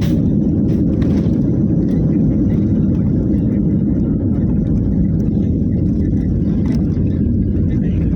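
Steady low rumble of an airliner heard from inside the passenger cabin: engine and airflow noise with no change in level.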